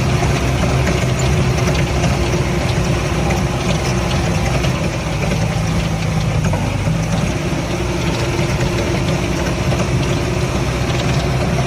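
Jeep engine running steadily with a low, even drone.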